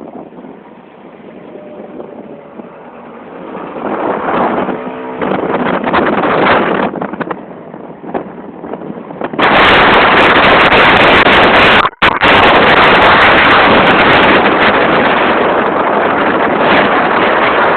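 Wind buffeting a phone's microphone while riding: fluctuating at first, then loud and constant from about halfway through, broken by a brief dropout.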